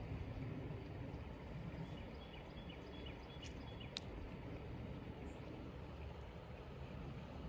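Steady low outdoor rumble with a few faint clicks about three and a half and four seconds in, and some light high chirps or ticks just before them.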